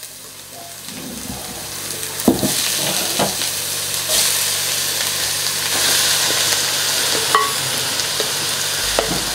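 Grated beetroot dropping into a hot pan of fried onions and spices and sizzling, the sizzle building over the first couple of seconds as more lands, with a few knocks of the wooden spoon as it is scraped out of the bowl.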